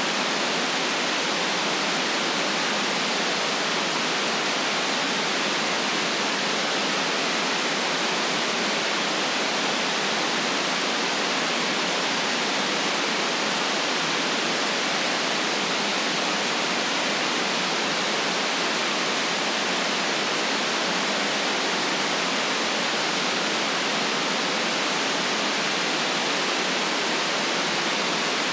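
Steady white noise for relaxation: an even, unchanging hiss with no deep rumble and no breaks.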